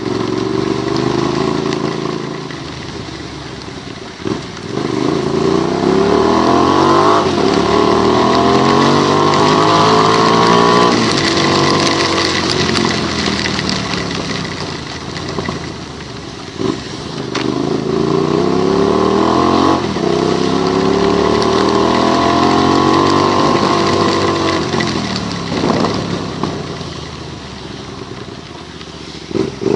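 Vehicle engine accelerating on a wet road, its pitch climbing through two gears and then falling as it eases off, a sequence that happens twice. A steady hiss from the wet road and wind runs underneath.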